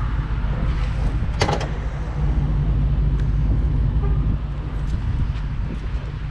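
Car engine idling with a steady low rumble, and one sharp clack about one and a half seconds in.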